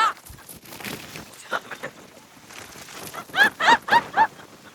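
A woman laughing in a high-pitched run of about four quick "ha" bursts a little past halfway, with faint rustling and clicks before it.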